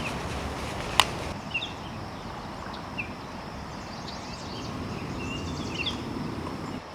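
Short, high bird chirps scattered over a steady outdoor background noise, with one sharp click about a second in.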